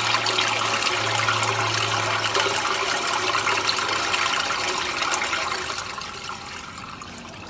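Water rushing through a sewer drain line that has just been cleared of a clog, with a steady low hum under it for the first few seconds. The flow fades away over the last couple of seconds.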